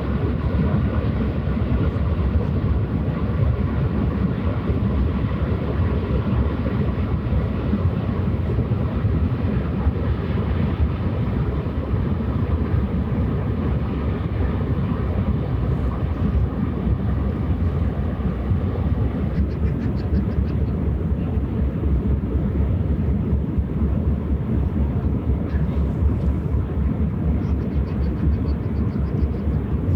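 Low, steady engine drone of a passing ship, with a faint machinery hum that fades out about two-thirds of the way through.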